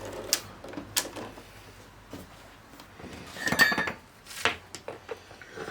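Small hard objects being handled: scattered clicks and knocks, with a short rattling clatter a little after three seconds in.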